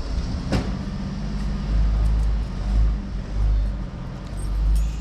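Car engine running with a deep low rumble that swells up and down several times, with one sharp click about half a second in.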